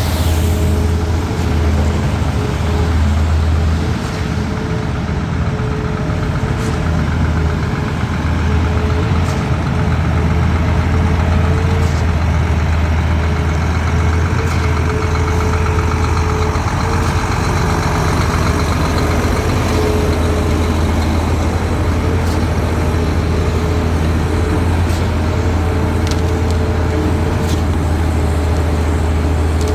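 Heavy truck engine running steadily at a concrete pour, a deep even drone with no change in speed.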